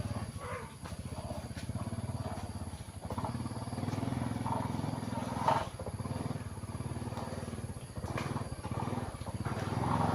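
Small motorbike engine running steadily with an even low pulse, heard from the bike while riding.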